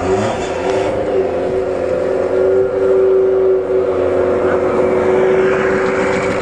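Motorcycle engine of a home-built dune buggy running at high revs. The pitch climbs over the first second, then holds steady.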